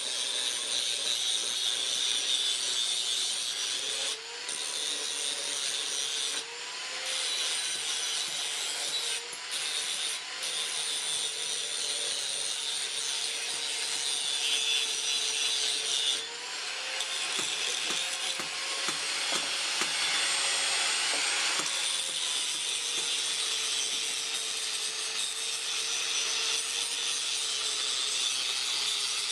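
A power tool working the steel of a truck leaf spring: a steady, high rasping noise over a motor hum that sags and recovers as the tool is pressed into the metal and eased off, with a few short breaks.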